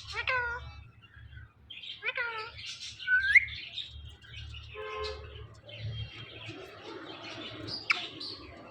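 Indian ringneck parakeets calling. There are two sharp, downward-sliding calls, then a loud rising whistle about three seconds in, then softer chattering.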